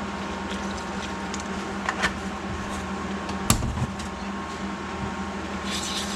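Steady hum of a kitchen appliance, with a few light clicks and one sharp knock about three and a half seconds in. Near the end a soft hiss sets in as milk starts pouring into the flour and egg batter.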